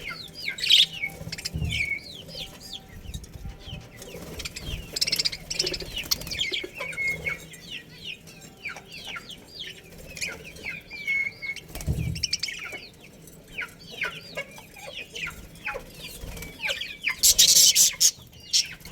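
A colony of budgerigars chattering: many quick, overlapping chirps and warbles that fall in pitch, with a louder burst of shrill calls near the end. A couple of dull thumps come in between.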